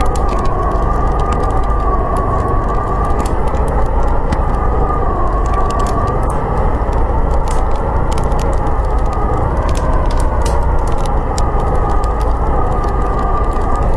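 Blizzard wind howling steadily, with a wavering whistle rising and falling in pitch, over a wood fire crackling with scattered sharp pops.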